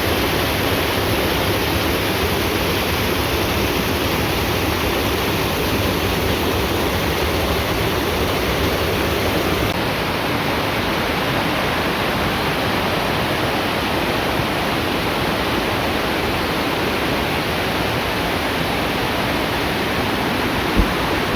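Waterfall: a steady, unbroken rush of falling water, its tone changing slightly about ten seconds in.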